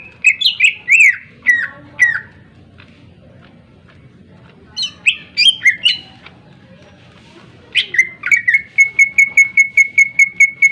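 Cucak ijo (green leafbird) singing loud, sharp whistled phrases. It gives a run of falling notes, a pause, then a second burst. Near the end it switches to a fast series of identical clipped notes, about five a second.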